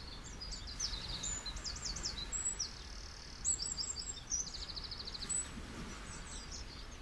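Several birds chirping and singing in quick, high-pitched phrases and trills, over a steady low background rumble.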